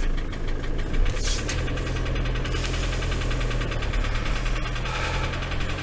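Ford Transit van engine idling cold, held running so that it won't stall, with a fast, regular ticking knock in its running. The owner doesn't know what the knock is.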